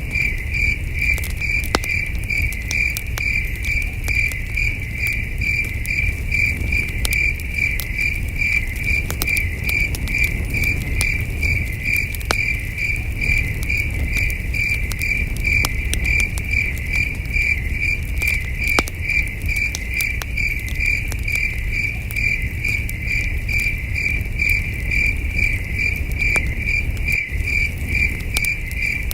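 Crickets chirping in an even, pulsing rhythm, with the scattered crackles and low rumble of a campfire underneath.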